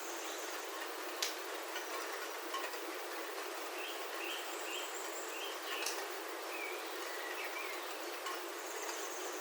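Steady rain on a roof heard from inside, with a few sharp drips, about a second in and near the middle. Birds call over it: a run of short chirps in the middle and a thin high trill that comes and goes.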